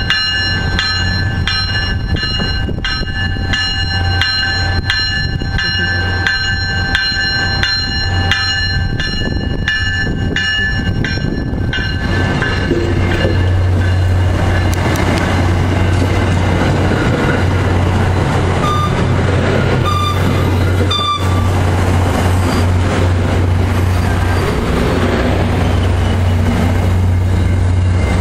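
MBTA commuter rail train's bell ringing steadily, about two strokes a second, as the cab car leads the train in. About twelve seconds in the bell stops and the noise of the passenger cars and the diesel locomotive pushing at the rear takes over as they run past close by.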